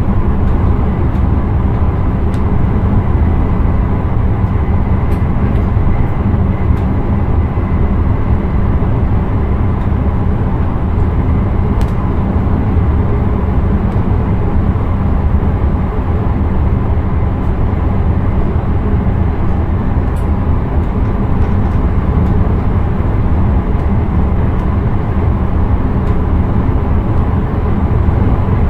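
Intercity train running on the line, heard inside the driver's cab: a steady loud rumble of the running gear and wheels on the rails, with a few faint clicks.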